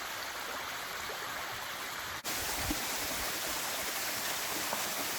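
Running water of a mountain stream, a steady rushing, interrupted for a moment about two seconds in.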